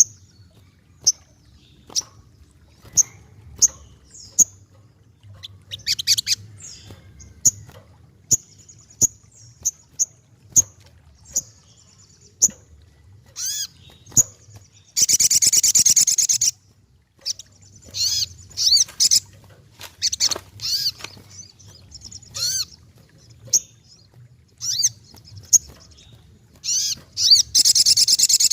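Sogokontong, a small sunbird, calling and singing: a scatter of short, sharp high-pitched chirps, with two longer, loud rapid song bursts, one about halfway through and one near the end.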